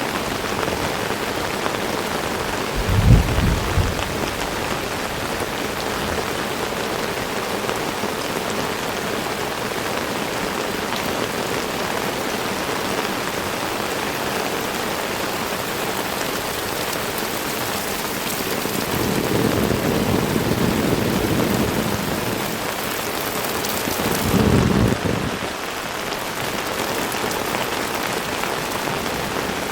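Heavy rain falling steadily in a dense hiss. Three low rumbles break in: a short one about three seconds in, a longer swell around twenty seconds, and another just before twenty-five seconds.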